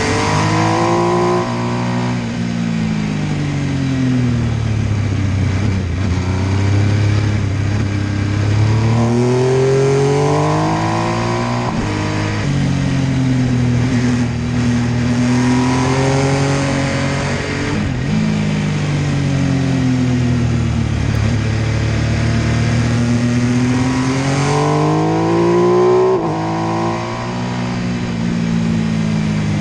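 MV Agusta F3 800's three-cylinder engine under way, its pitch climbing under acceleration and falling away as the throttle closes, over and over, with a few sudden drops in pitch at gear changes. Wind noise runs underneath.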